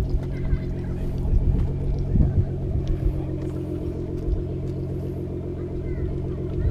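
Car engine running steadily, a low even drone.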